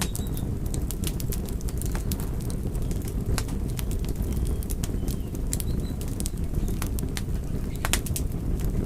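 Wood fire burning: sharp crackles and pops at irregular moments over a steady low rumble of flames.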